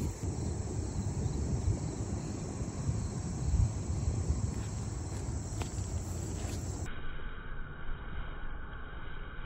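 Outdoor ambience: a low, uneven rumbling on the microphone with a steady high-pitched insect buzz.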